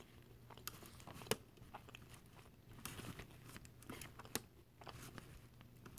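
Faint crunching as tortilla chips loaded with cheese and salsa are chewed: scattered crisp crackles, a few sharper ones.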